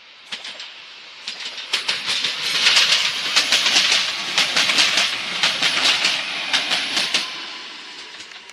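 Koleje Śląskie electric multiple unit passing close by: a rush of wheel and rail noise that swells to a peak a few seconds in and fades near the end, with the wheels clattering over the track in sharp clicks.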